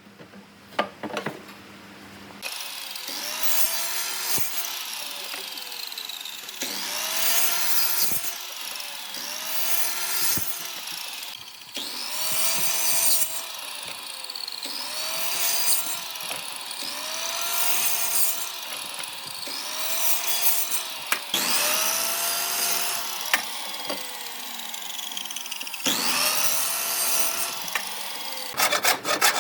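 Electric power tool cutting wood in about ten repeated passes, roughly every two seconds; with each pass the motor's pitch bends up and then falls back as it takes and sheds the load. Near the end it gives way to a run of rapid rubbing strokes on wood.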